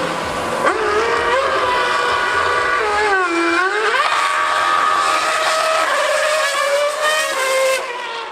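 Formula One car engine screaming at high revs: the pitch drops and comes back up about three seconds in, then climbs in steps through several upshifts before falling away near the end.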